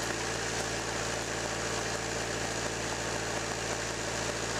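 Toyota 2L four-cylinder diesel engine running steadily with a flushing charge in the crankcase.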